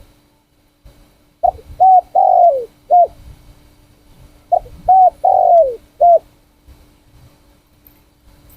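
Spotted dove cooing: two matching phrases of four notes each, the third note long and falling in pitch.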